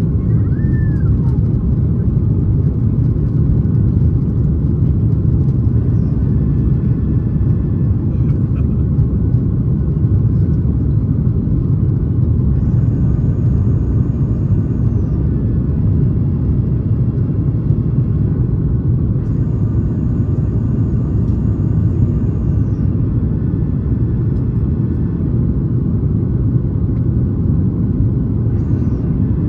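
Steady, loud roar of a Boeing 737 MAX 8 under engine power, its CFM LEAP-1B engines heard from inside the cabin as a deep, even rumble with faint thin tones above it that come and go.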